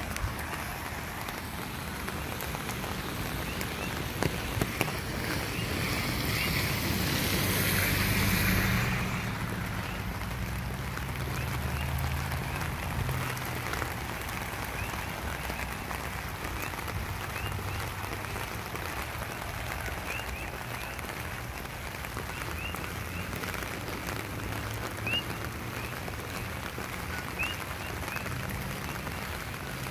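Steady rain falling, with a louder hiss from a vehicle passing on the wet road that swells and fades away between about six and nine seconds in.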